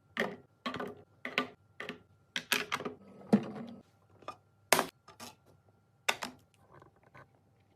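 Food containers and packages being handled and set down on fridge shelves: a run of irregular clicks, clacks and knocks, about a dozen in all, the sharpest around the middle.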